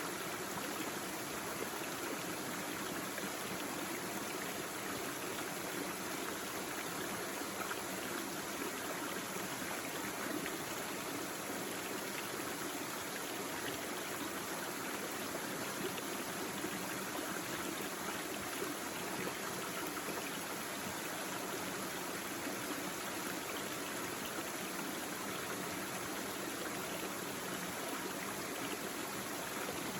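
Small brook babbling steadily over stones, an even rush of flowing water.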